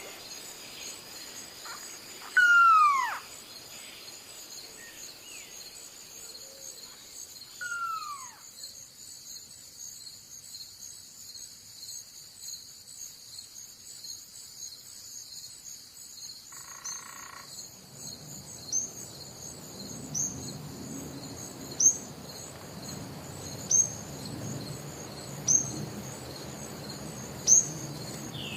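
Steady, high-pitched chorus of crickets or similar insects. Twice early on, a loud animal call slides sharply down in pitch. From about two-thirds in, a low pulsing chorus, most likely frogs, joins in, with a short sharp chirp repeating about every two seconds.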